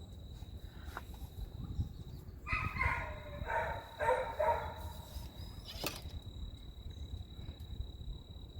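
An animal calling: a run of about four short pitched calls in quick succession a few seconds in, over a low rumble. A single sharp click follows about a second later.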